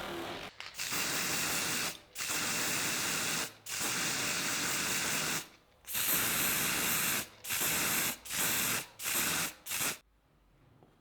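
Spray hissing in a series of about eight bursts, the first three longer and the later ones quicker and shorter, stopping about ten seconds in.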